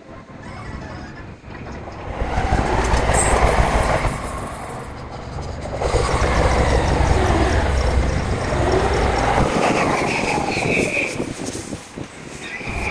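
Electric trains running through a busy station, their motor whine rising and falling in quick arcs over a low rumble as several trains move one after another, the sound played back fast. A short, high, steady squeal comes twice near the end.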